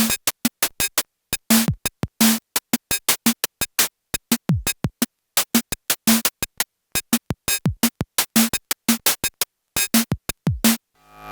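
SxLab Fortress experimental synthesizer playing a drum-machine style pattern: rapid short clicky hits, a repeated short low blip, and now and then a kick-like thump that drops in pitch. The pattern stops just before the end.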